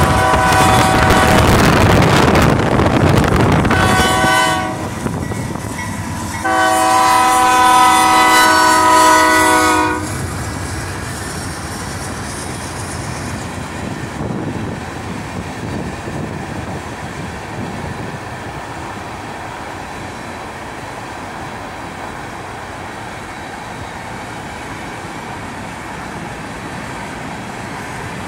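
BNSF freight locomotive's air horn sounding two long blasts of a multi-note chord for a grade crossing, the second louder. After that comes the steady rumble and clatter of hopper cars rolling past on the rails.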